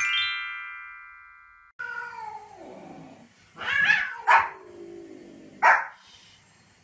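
A chime sound effect rising in pitch, then ringing out and fading. After that, a cat yowls in long falling cries, and a small white spitz-type dog gives three short sharp barks about four, four and a half and five and a half seconds in.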